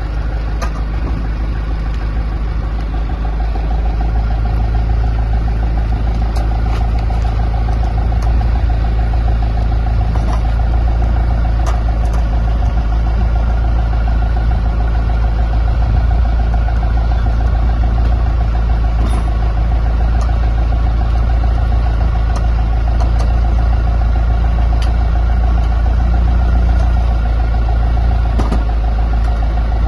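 An engine or motor running steadily with a strong low hum and a steady whine, getting a little louder about four seconds in, with a few faint clicks.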